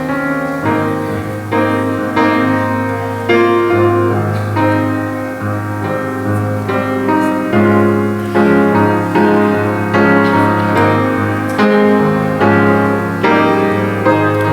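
Piano playing slow music for the offertory, chords struck in a steady rhythm, each ringing and fading before the next.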